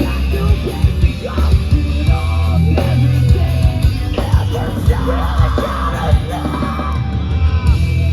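A heavy band playing live over a loud PA, with pounding drums, heavy low-end guitar and bass, and a yelled vocal.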